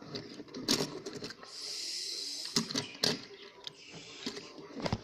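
Toy cars being handled: a few sharp clicks and knocks, with a stretch of hiss about a second and a half long in the middle.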